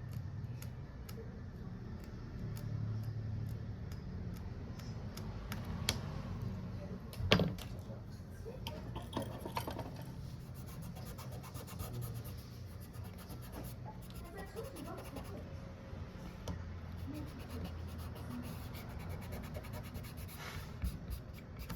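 Scattered small clicks and taps of small objects being handled, with one sharper, louder knock about seven seconds in, over a steady low hum.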